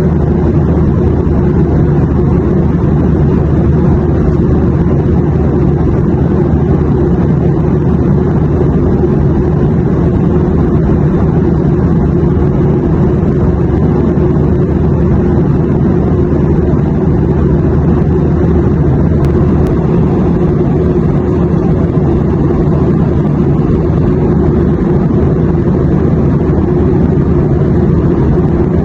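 Airplane cabin noise: a steady, unchanging low drone of engines and rushing air, with a deep hum under it.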